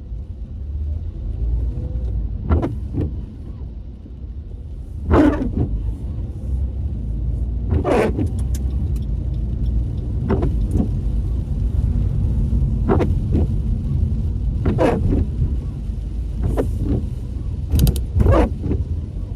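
Low steady rumble inside a car's cabin with the windscreen wipers sweeping across a wet windscreen, one stroke about every two and a half seconds.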